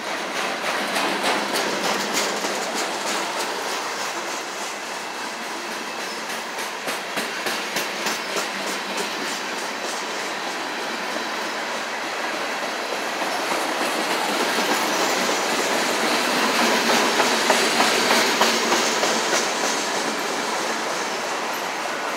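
Freight cars of a slow manifest train rolling past on steel wheels, clacking over rail joints in repeated runs of clicks over a steady rolling rumble. The rolling noise grows louder in the second half.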